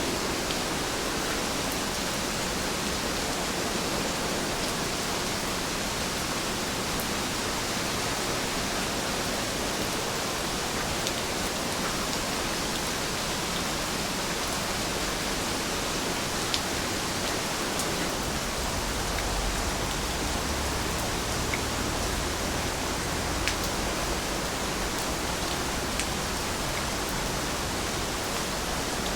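Steady rain falling, an even hiss with a few faint sharp drop ticks; a low rumble joins from about two-thirds of the way in.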